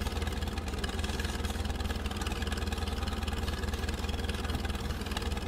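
Tractor engine running steadily with a fast, even pulse and a low drone.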